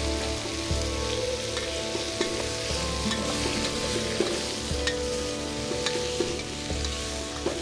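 Food sizzling in a pot over a campfire, with scattered small crackles. Background music with held notes plays under it.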